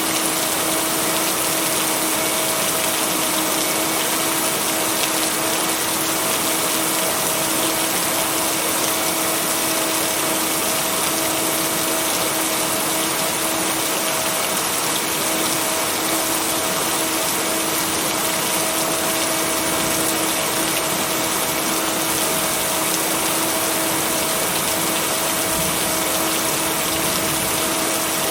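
Steady rain, blended with white noise and a continuous low, even tone from a binaural-beat track. There is no thunder.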